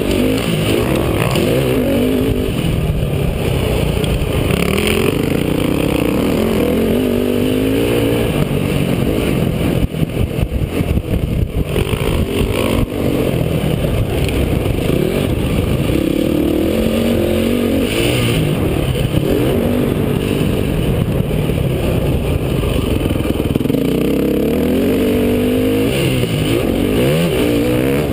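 Motocross dirt bike engine revving hard, its pitch rising and falling again and again as the throttle opens and closes. It eases off about ten to thirteen seconds in, with some rattling knocks, then pulls hard again.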